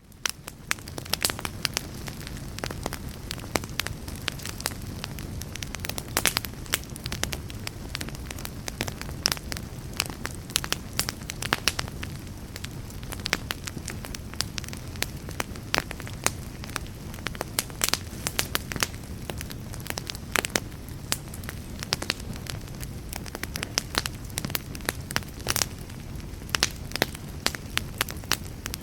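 Fire crackling: many sharp pops and snaps over a steady low rumble of burning. It rises from near silence in the first second.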